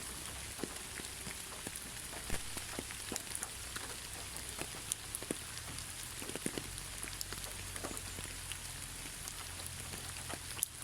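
Steady rain with many separate drops tapping at irregular moments on a surface.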